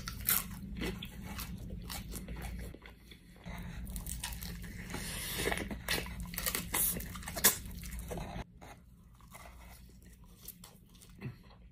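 Close-up biting and chewing of crispy breaded fried chicken: a run of sharp crunches from the coating that thins out to quieter chewing about eight seconds in.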